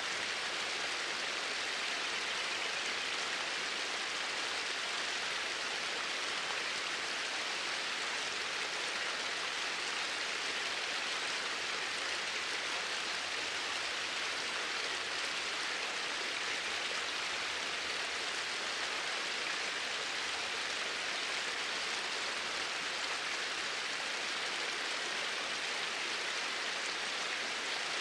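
Water flowing steadily: an even, unbroken rushing hiss.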